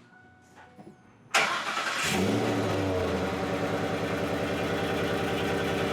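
Ford F-150 pickup's engine starting: it catches suddenly about a second and a half in, flares up briefly, then settles into a steady idle.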